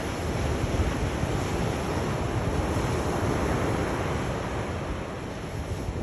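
Sea surf: waves washing in continuously as a steady rushing noise with a low rumble, swelling slightly midway and easing a little near the end.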